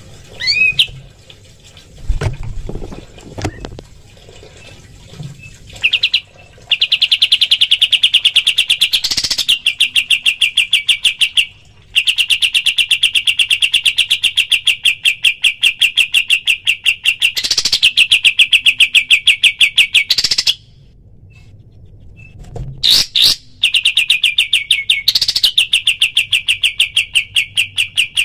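Kapas tembak songbird singing its 'tembakan' song: long runs of very fast, machine-gun-like repeated notes at one steady pitch. There are three runs, each several seconds long, and each has a brief rising whistle partway through.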